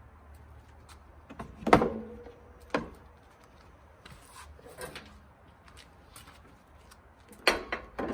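A few sharp knocks, the loudest about two seconds in and again near the end, each followed by a brief ringing tone, with fainter scattered clicks in between.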